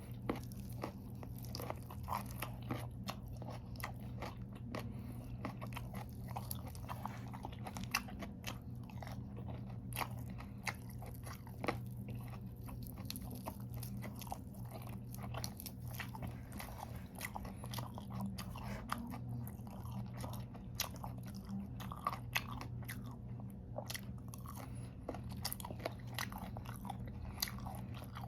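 Close-up chewing and crunching of raw vegetables (lettuce and carrots with ranch dressing): irregular crisp crunches and bites throughout, over a steady low hum.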